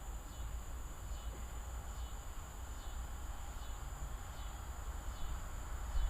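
Evening insects, crickets among them, chirping steadily: a constant high drone with fainter chirps repeating about once a second, over a continuous low rumble.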